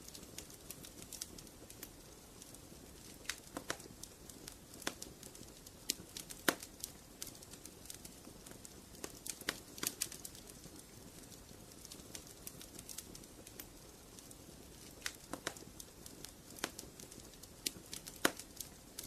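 Wood fire burning in a fireplace: a soft steady rustle of flames with irregular crackles and sharp pops from the burning logs, a few louder snaps among them.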